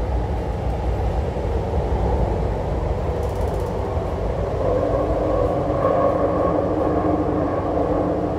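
MTR Tuen Ma Line C-Train running, heard from inside the passenger car: a steady rumble of the wheels on the rails, with a few steady tones joining the noise about halfway through.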